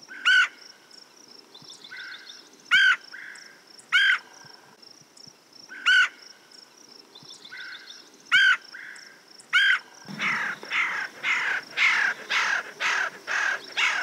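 Red-headed woodpecker giving sharp single "tchur" calls, six loud ones a second or two apart with fainter ones between. About ten seconds in it switches to a quick run of harsh "charr charr" notes, about three a second.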